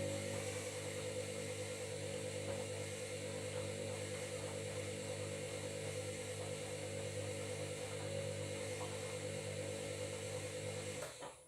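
Washing machine running with a steady buzzing hum that cuts off suddenly near the end.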